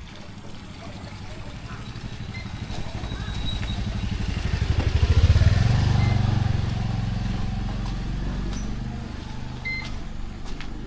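A motorcycle approaches, passes close by with its engine running loudest about five and a half seconds in, and then fades away with a slight drop in pitch.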